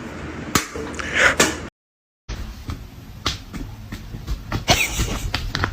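A series of sharp taps and slaps, broken by half a second of dead silence about two seconds in. About five seconds in comes a short cat hiss.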